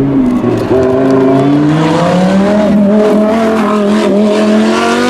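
Lamborghini Huracán Super Trofeo race car's V10 engine accelerating hard, its pitch rising steadily for about four seconds, with a quick sharper rise right at the end.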